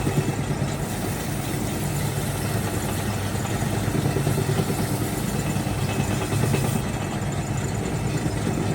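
Wood lathe motor running with a steady low hum.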